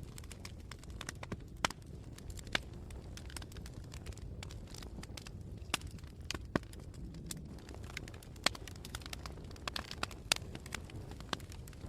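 Wood fire burning: a steady low rumble of flames with many sharp, irregular crackles and pops from the burning wood.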